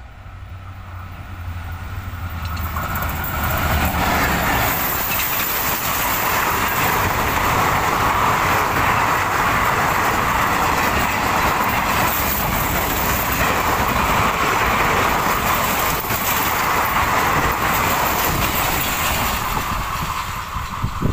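Express train hauled by an EMD diesel locomotive approaching and passing at speed. The locomotive's low engine drone swells over the first few seconds, followed by a long, loud rush of coaches and wheels going by.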